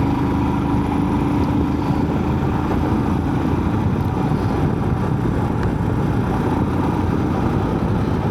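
Motorcycle on the move: steady engine and road noise, with a faint steady engine tone that fades out about three seconds in.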